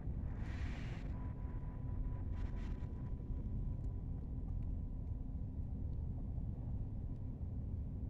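Steady low outdoor background rumble with a constant low hum. A faint thin tone comes in about a second in and fades out around six seconds, and two short hisses sound near the start.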